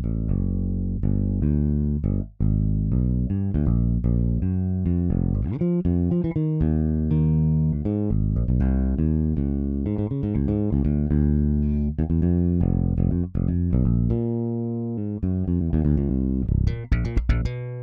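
Sampled electric bass from EZBass playing a syncopated funk bass line from MIDI: short plucked notes and slides in a busy rhythm. Near the end the line breaks into a run of quick staccato notes, then stops briefly.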